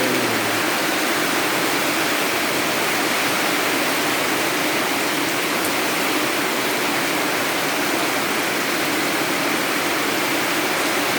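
Rain falling steadily, a constant even hiss of water.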